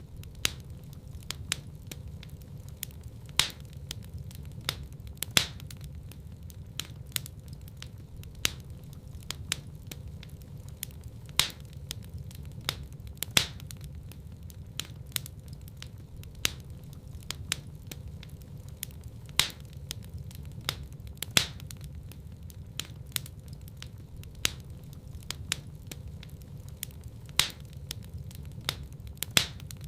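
Wood fire in a fireplace crackling: irregular sharp pops and snaps, a few much louder than the rest, over a steady low rumble of the flames.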